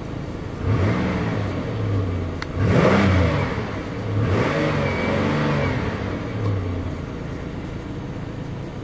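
2008 Pontiac Grand Prix's 3.8-litre Series III V6, still cold from sitting in the snow, revved up and let fall back several times, the biggest rev about three seconds in, then settling to idle near the end.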